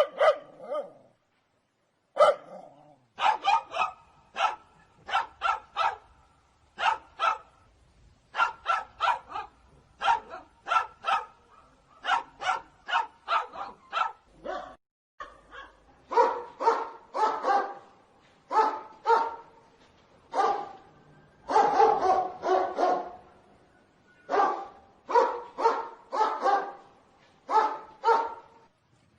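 Dog barking repeatedly in quick runs of two to four barks, with short pauses between the runs.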